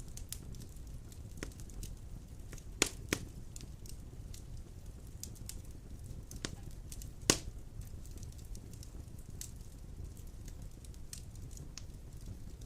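Wood fire of large logs burning in a stone fireplace: a low steady rumble of flame with scattered crackles and a few sharp pops, two close together about three seconds in and the loudest about seven seconds in.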